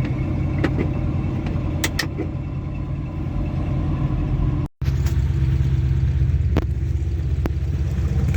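Old Ford Mustang's engine running with a steady low rumble, with a few sharp clicks over it. The sound drops out abruptly for an instant just before the midpoint, then the engine runs on.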